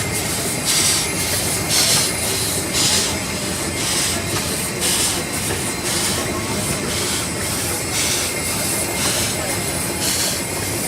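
1909 Case 20-horsepower steam traction engine running slowly at idle, its exhaust giving off a hissing puff about once a second over a steady mechanical rumble.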